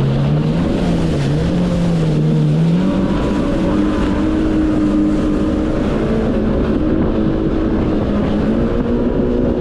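Yamaha VX Cruiser H.O. WaveRunner's four-stroke engine and jet drive running under way. The pitch wavers, then rises about three seconds in and holds steady, over a steady rush of noise.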